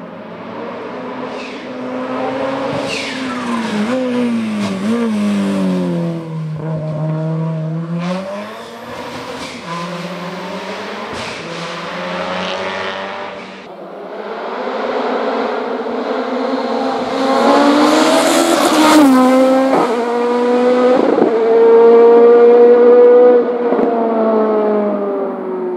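Race car engine at full racing revs on a hill-climb course: the pitch drops as it brakes and downshifts, then climbs in steps through quick gear changes, climbs again to its loudest, and fades as it moves away near the end.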